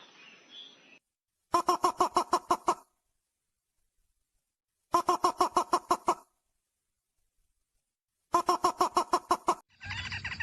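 Looped recording of ruddy-breasted crake calls played as a hunting lure: three bursts of about ten quick, evenly spaced notes, each just over a second long, with about two seconds of dead silence between them. Near the end a different, busier recording with chirping notes cuts in.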